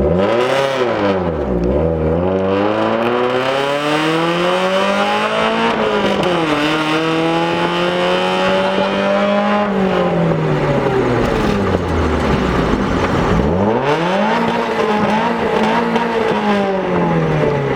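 1994 Mazda Miata's 1.8-litre four-cylinder engine running loud through a short side-exit pipe welded on after the catalytic converter. The revs climb and drop several times, with one long steady pull in the middle that cuts off suddenly about ten seconds in.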